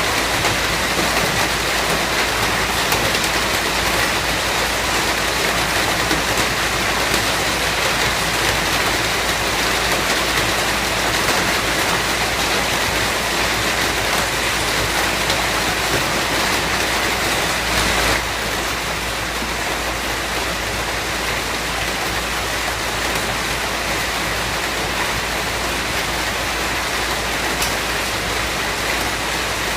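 Steady rain falling, a dense even hiss of drops. The level steps down slightly about eighteen seconds in, then holds steady.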